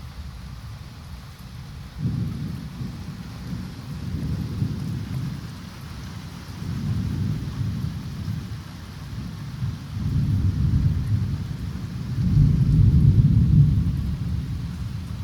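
Thunder rolling over steady rain. The deep rumble sets in suddenly about two seconds in and swells in several waves, loudest near the end, while the rain hisses throughout.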